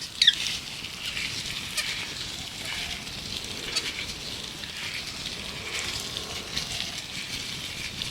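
Gloves being rubbed and handled close up, making a continuous crinkly rustling with fine crackles. Birds chirp in the background. A sharp, falling squeak-like chirp near the start is the loudest sound.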